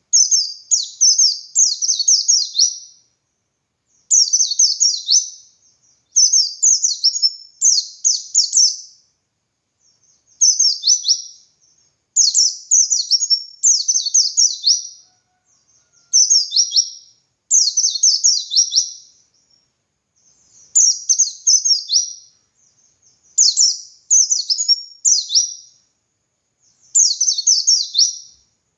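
White-eye (pleci) singing its full 'ngalas' song: phrases of quick, high, sharp falling notes, each one to two seconds long, repeated over and over with short pauses between them.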